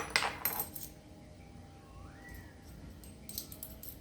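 Brief clatter of kitchen items being handled near the start, then mostly quiet with a faint short rising squeak about two seconds in and a few light clicks near the end.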